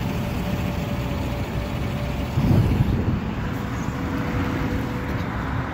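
Steady low rumble of a motor vehicle engine running, with a louder swell about two and a half seconds in.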